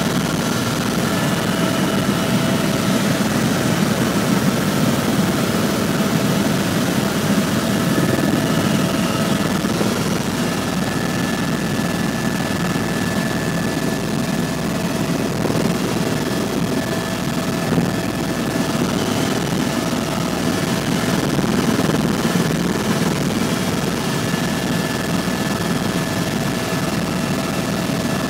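Helicopter in flight, heard from aboard: a steady, unbroken engine and rotor drone with a constant high whine over it.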